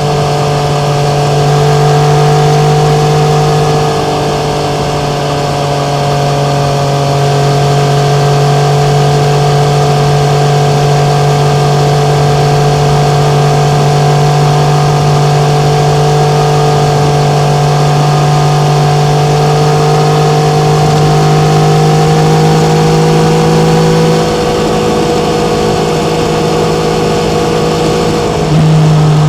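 Yamaha MT-09's three-cylinder engine running at a near-constant pitch under steady throttle, as on a cruise, with wind rush over it. The engine eases off slightly twice and picks up again near the end.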